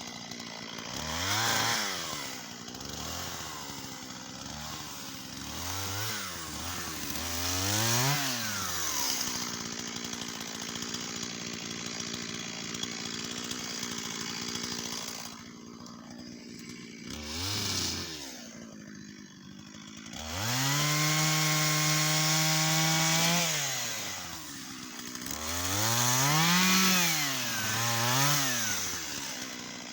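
Shindaiwa 488 two-stroke chainsaw idling between quick blips of the throttle, the revs rising and falling again each time. It is held at high revs for about three seconds past the middle.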